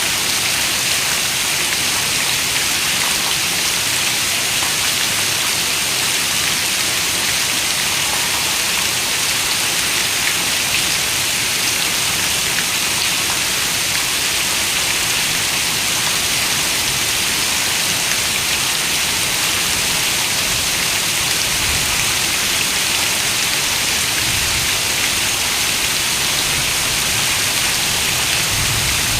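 Steady rain falling, an even, unbroken hiss with most of its energy high up. A faint low rumble comes and goes near the end.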